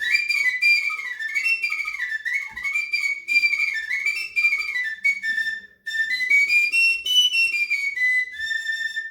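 A three-hole Russian folk whistle flute (sopel) plays a quick, ornamented folk tune in a high register, with a short break about six seconds in, ending on a held note. Only three finger holes give the whole scale.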